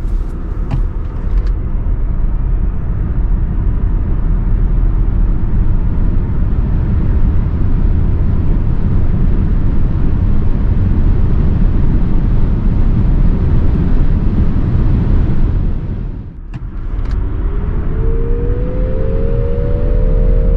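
Nissan Ariya e-4ORCE electric SUV accelerating at speed: a loud, steady rumble of road and wind noise. After a short drop about three-quarters of the way in, a whine rises steadily in pitch as the car gathers speed.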